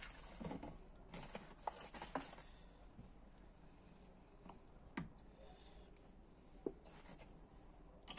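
Near-quiet bench work: a few faint, separate taps and clicks of small engine parts being handled, several in the first two seconds and a sharper tick about five seconds in.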